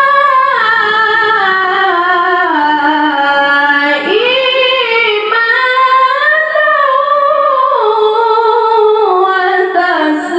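A boy qari reciting the Quran in melodic tilawah style, drawing out the word 'illā' in one long, ornamented vocal line that slides up and down in pitch, with a short dip for breath about four seconds in.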